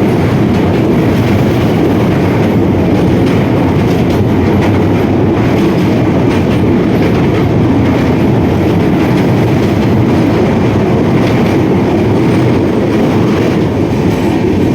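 Train running along the rails: a loud, steady rumble of wheels and carriages.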